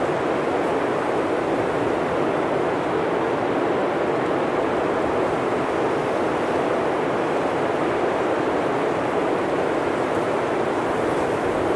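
Blizzard wind blowing steadily through a forest, a continuous rushing noise with no gusts or pauses.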